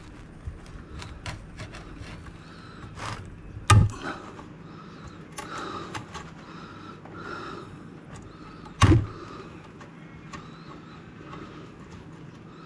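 Two loud knocks about five seconds apart, with lighter clicks and taps around them.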